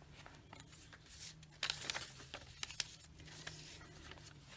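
Faint rustling and crinkling of paper pages being handled and turned, with a few sharp papery ticks; it gets louder about a second and a half in.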